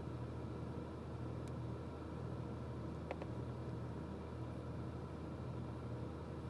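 Steady low background hum, with a faint small click about three seconds in.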